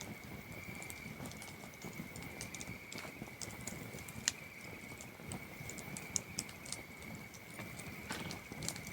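Campfire crackling, with irregular sharp pops of burning wood and a loud single pop about four seconds in, over a steady high cricket trill.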